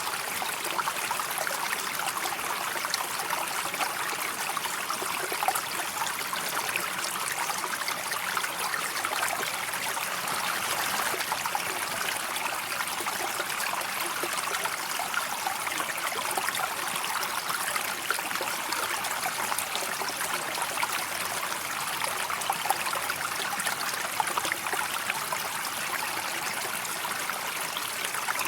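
River water flowing and trickling in a steady, even rush, with no change in level.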